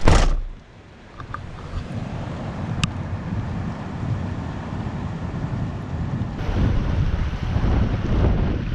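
Wind buffeting the microphone in a steady low rumble, growing stronger about six seconds in, after a short loud burst at the very start.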